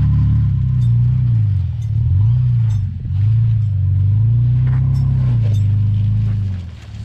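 Off-road vehicle's engine revving up and easing off several times in a row, the pitch swelling and dropping back, as throttle is fed on and off while crawling over rocks.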